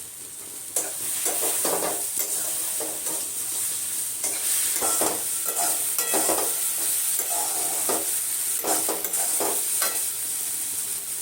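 Spice paste sizzling in hot oil with fried potato and green banana in a pan, stirred with a spatula in irregular scraping strokes that start about a second in.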